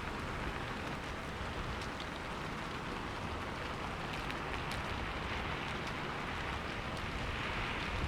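Steady heavy rain falling on surfaces, an even wash of rain with scattered individual drop ticks.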